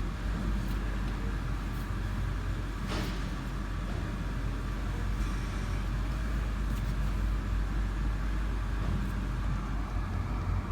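BMW engine idling steadily with a low hum, with a brief rushing noise about three seconds in and a few faint clicks.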